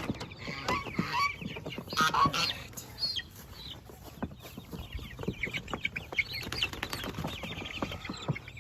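Young Cornish Cross meat chickens cheeping and clucking in short chirps, with many small knocks and scuffs mixed in.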